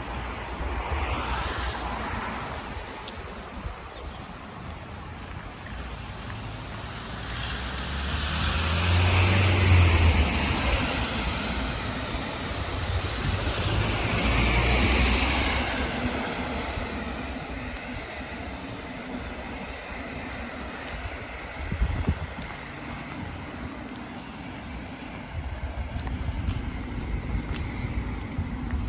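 Road vehicles passing by, about three times: each one's noise swells up and fades away over a few seconds, with wind on the microphone in between.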